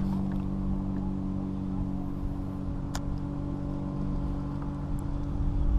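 Steady hum of a motorboat engine running across the water, over low wind and water rumble on the microphone. A single sharp click about three seconds in.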